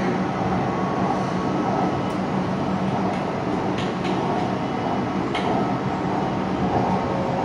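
Inside a moving BTS Skytrain carriage: the steady running rumble of the electric train with a low hum. A few faint clicks come through along the way.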